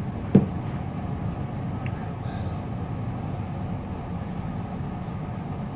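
Steady low rumble of a train running, heard from inside the carriage, with one sharp knock about half a second in.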